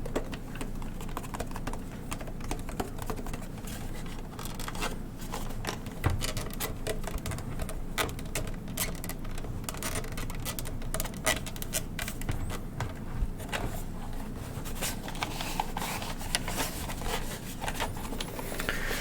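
An old intercom unit being handled for ASMR: fingers tapping, scratching and clicking on its casing in a long run of light, irregular taps.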